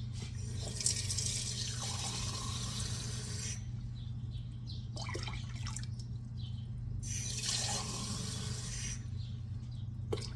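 Water running from a kitchen tap into a cooking pot in two spells, a longer one of about three seconds and a shorter one near the end, as the pot's water level is brought higher. A few small knocks sound between them.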